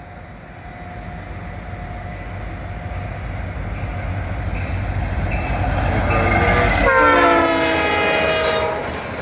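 Diesel freight locomotive approaching with a low engine rumble that grows steadily louder, then its multi-chime air horn blows a loud chord for almost two seconds, about seven seconds in, just after a brief fainter note.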